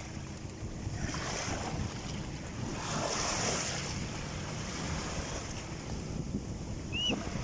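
Sea waves washing in, with wind buffeting the microphone; the wash swells about a second in and again around three seconds. A short high chirp near the end.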